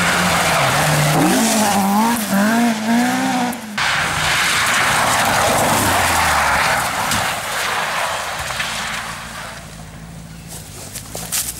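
Rally car engine at full stage pace, its pitch rising and falling repeatedly as the driver works the revs and gears through a bend, with tyre noise. A sharp break about four seconds in gives way to a loud rush of engine and tyre noise that fades towards the end.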